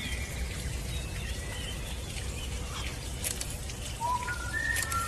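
Birds calling: short chirps and whistled notes, some gliding upward, with more of them near the end, over a steady low rumble.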